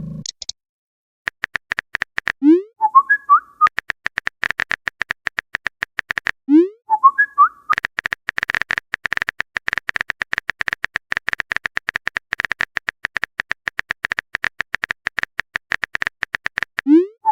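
Rapid, even clicking like a phone's on-screen keyboard being typed on, as a chat sound effect. Every few seconds, three times in all, the clicking breaks off for a short rising chirp and a quick twittering message alert.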